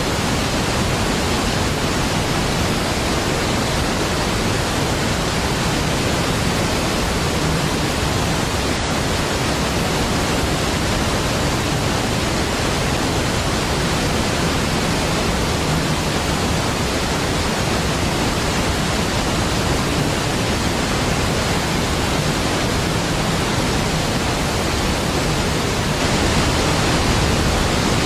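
Large waterfall, Niagara Falls, pouring steadily as a dense, even rush of water noise, slightly louder near the end.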